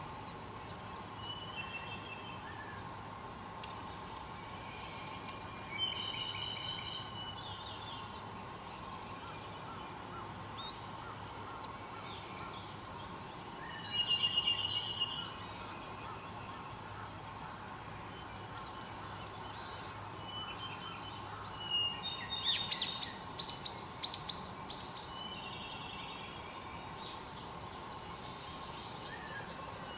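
Wild birds singing and calling in short, separate phrases, the loudest bursts about halfway through and again around three quarters of the way in, over a steady faint drone.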